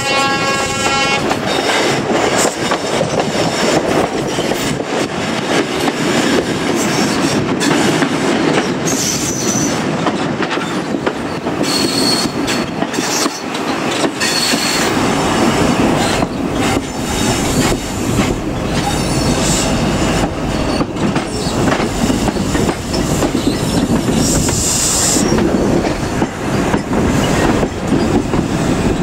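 InterCity 125 high-speed train with diesel power cars and Mark 3 carriages running along the line: a steady, loud rumble of engine and wheels with rail-joint clicks and brief high wheel squeals. A horn note dies away about a second in.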